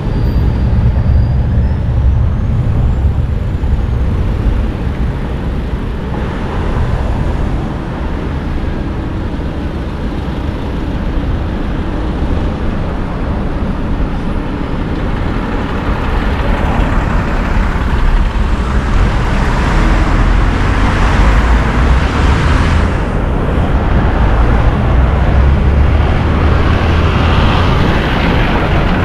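Wind rumbling on the microphone with a steady rushing noise, as from riding along on a bicycle. The hiss grows louder in the second half.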